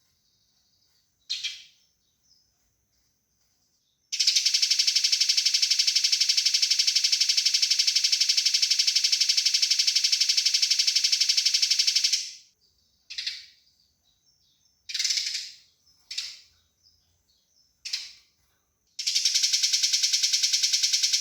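Eurasian tree sparrows' fighting calls: a high, fast rattling chatter of rapid even notes lasting about eight seconds, then several short chirps, and the rapid chatter starts again near the end.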